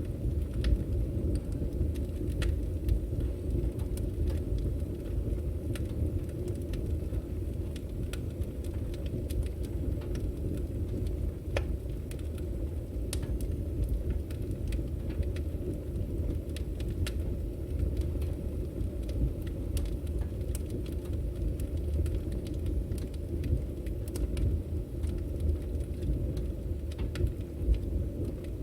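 Firewood burning: a steady low rumble of flames with scattered sharp crackles and pops from the wood.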